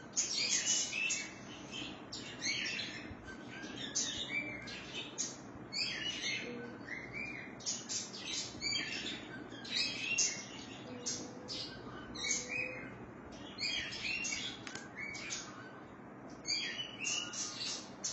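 Small birds chirping: quick runs of short, high notes that repeat every second or two, with brief pauses between.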